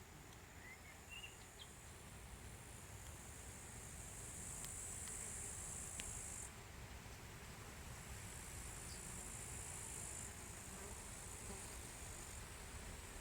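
Faint hum of many honeybees and other insects working a flowering linden tree, with a high-pitched insect trill that comes and goes in stretches of a few seconds.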